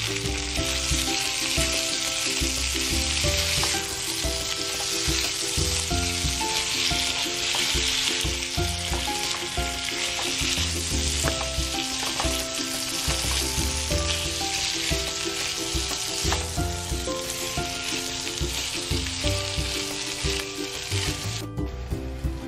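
Beef liver, onion, red bell pepper and carrot strips sizzling as they stir-fry in a nonstick pan, with a spatula stirring them through. The sizzling stops about a second before the end, leaving soft background music that runs underneath throughout.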